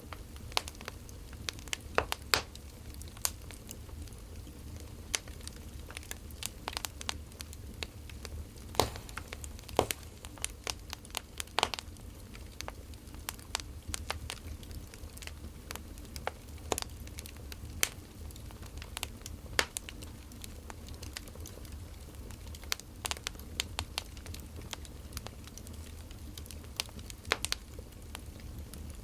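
Firewood burning and crackling, with irregular sharp pops and snaps over a low steady hum.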